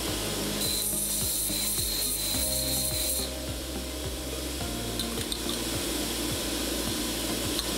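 Linisher belt grinder running with a steady motor hum. From about half a second in, for roughly two and a half seconds, a stainless steel baffle is pressed to the abrasive belt: a harsh grinding hiss with a high whine as the proud head of a rivnut insert is ground flush.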